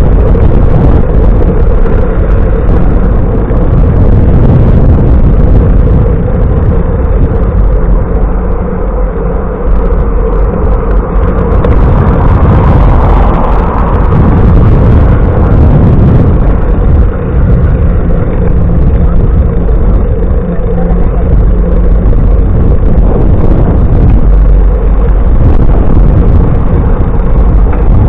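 Wind rushing over the microphone of a camera carried on a moving bicycle, a loud continuous rumble with road noise.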